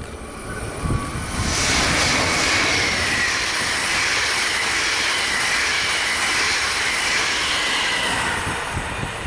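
Multi-car passenger train passing at speed: a rush of wheel and air noise builds about a second and a half in, carrying a steady high whine that sinks slightly in pitch, then dies away near the end as the train recedes.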